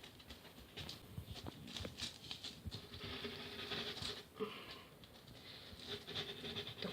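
Light, irregular tapping, scratching and rustling of hands working glue onto polystyrene foam sheets. There is a denser scratchy hiss a few seconds in.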